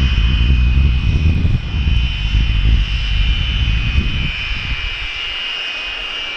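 BAC Strikemaster jet engines running with a steady high whine over a heavy low rumble; the rumble drops away about five seconds in while the whine holds.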